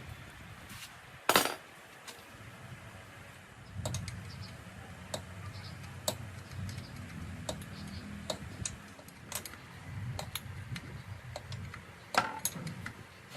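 Metal parts and tools clinking and knocking during workshop work on an old motorbike, with one loud knock about a second in and many scattered light clicks after it. A low rumble sits underneath for much of the middle stretch.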